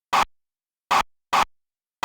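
Three brief scratchy noise bursts: one near the start, then two close together about a second in, with dead silence between them.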